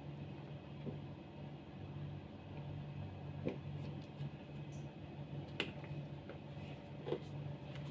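A few light, sharp clicks and taps from handling the washing machine's control-panel buttons and tester probes, over a steady low hum.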